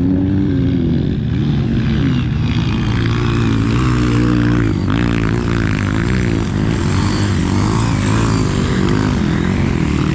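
A vehicle engine running continuously, its pitch rising and falling again and again as the revs change.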